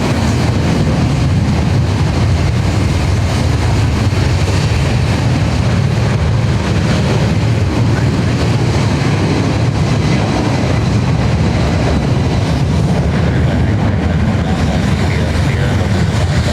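Jet airliner engines running at high power: a loud, steady, deep roar with a faint high whine.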